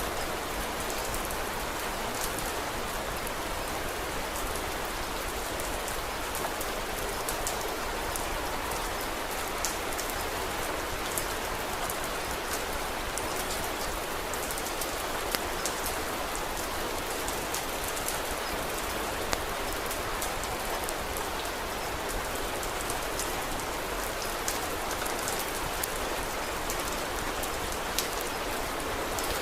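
Steady rain falling, a continuous even hiss with scattered sharp ticks and pops throughout.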